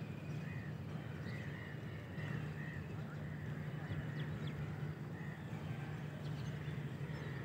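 Outdoor ambience: birds giving short, arched chirps, several in the first three seconds and another about five seconds in, over a steady low hum.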